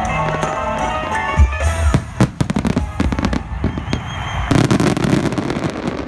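Fireworks crackling: a rapid run of sharp cracks starting about two seconds in, thickening into a dense continuous crackle near the end, with music playing at the start.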